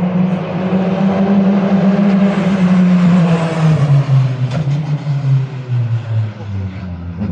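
Praga R1 race car engine running at steady high revs, then its pitch falling smoothly over about three seconds to a lower steady note near the end.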